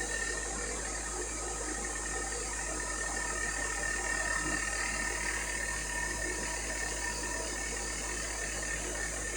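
Steady machinery running noise with a thin, constant high whine over it and no breaks or changes.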